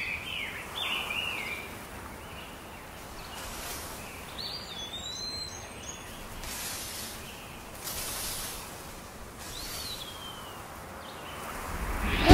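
Outdoor ambience: a steady hiss with scattered bird chirps, a cluster in the first second and a half and single calls about four and a half and ten seconds in. Music comes in loudly at the very end.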